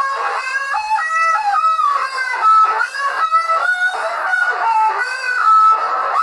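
A meme tune made of squawking, chicken-like calls: held notes stepping up and down in a melody, one after another without a break.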